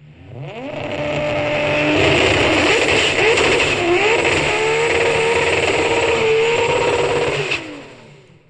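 Toyota Supra engine revving, its pitch rising and falling several times, fading in and dropping away suddenly near the end.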